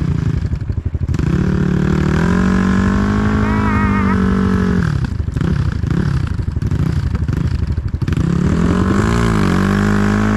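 Dirt bike engine running hard under load. The revs are held high for a couple of seconds, rise and fall in quick pulses around the middle, then climb and hold again near the end.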